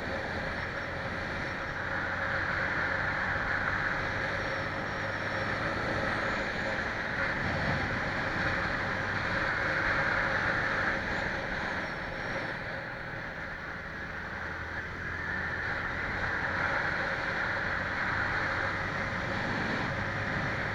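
Scania 111 truck driving, its straight-six diesel running steadily under road and wind noise heard from the cab; the sound eases a little about two-thirds through.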